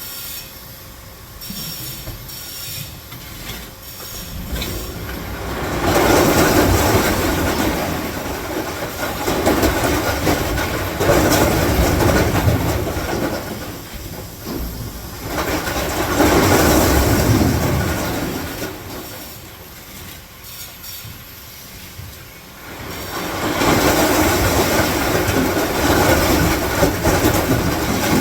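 A train running on rails, its clattering noise swelling and fading several times.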